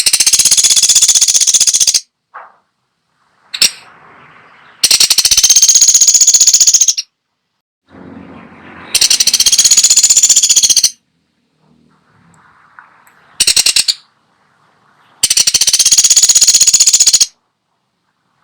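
Woodpecker giving long, rapid, high-pitched rattling calls, each lasting about two seconds. It gives four of these plus one short burst, with brief pauses between them.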